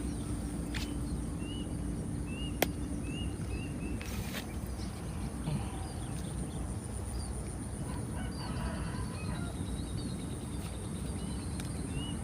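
Outdoor ambience of small birds chirping over a steady low background noise and a continuous high-pitched buzz, with one sharp click near three seconds in.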